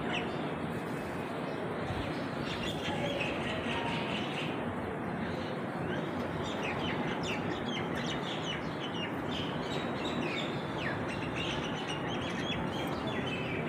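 Birds chirping, many short calls scattered throughout, over a steady background noise.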